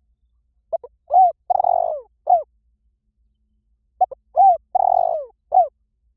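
Spotted dove cooing. The same phrase comes twice, about three seconds apart: a quick stuttering note, two longer coos, the second falling away, then a short closing note.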